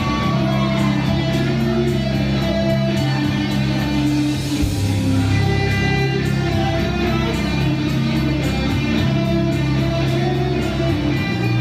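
Live rock band playing, with guitar prominent over a full bass and drum mix.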